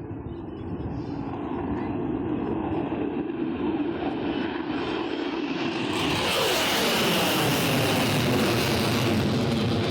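Airplane engine noise growing steadily louder as the aircraft approaches, turning brighter and fuller from about six seconds in.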